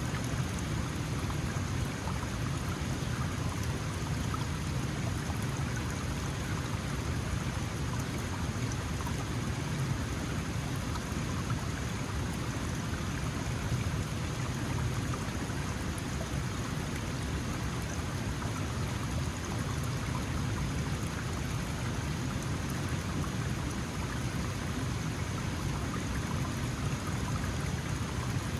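Small mountain stream flowing and splashing over rocks, a steady, even rush of water.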